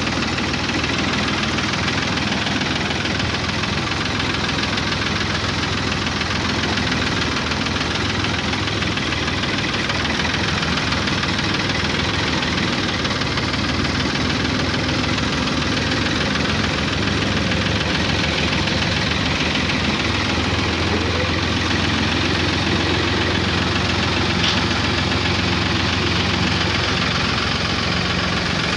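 Ford 3000 tractor's three-cylinder engine idling steadily while it warms up just after a hard cold start.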